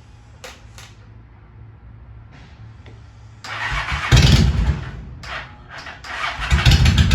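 Cold start of a 2001 Honda Shadow 750 ACE V-twin with an aftermarket Cobra exhaust: about three and a half seconds in it cranks and fires, falters, then catches near the end and runs with a loud, even pulse.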